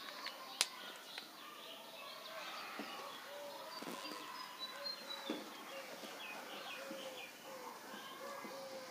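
Birds calling faintly in the background: short, arched calls repeating over and over, with a few higher chirps. A few light taps sound, the first and sharpest about half a second in.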